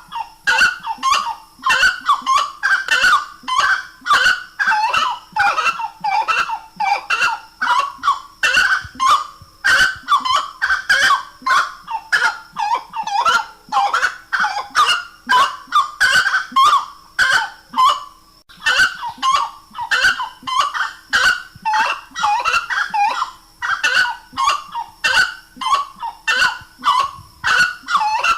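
Grey-necked wood rail (saracura-três-potes) calling: a loud, unbroken series of repeated honking call notes, about two or three a second.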